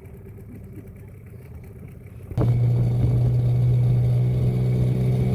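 Tour boat's motor running low and quiet, then throttled up suddenly about two seconds in to a loud, steady hum.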